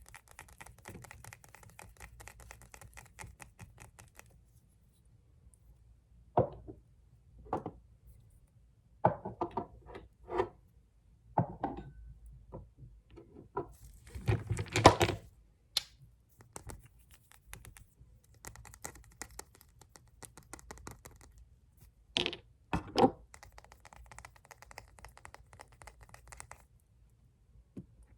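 Fingernails tapping fast on glass nail polish bottles, broken up by a run of separate, louder clunks and knocks in the middle as bottles are picked up and set down. The rapid tapping returns near the end, with two sharp knocks mixed in.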